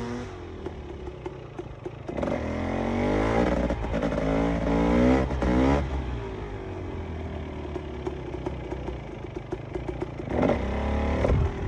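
KTM EXC 300 two-stroke single-cylinder engine under way, revving up in several rising pulls a couple of seconds in, then running steadily at lower revs, with another short rev near the end.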